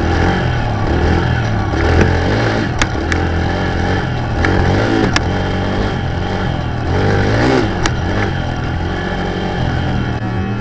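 A dirt bike engine runs hard, its pitch rising and falling several times as the throttle is opened and eased off. A few sharp clicks come through over the engine.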